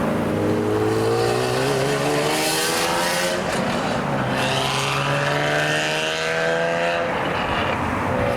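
Sports car engine accelerating away, rising in pitch through one gear, dropping at a shift about halfway, then rising again before levelling off.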